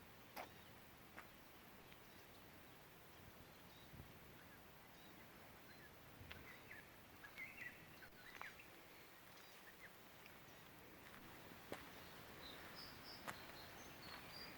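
Faint birdsong: scattered short, high chirps over a quiet hiss, more of them in the middle and near the end, with a few soft clicks.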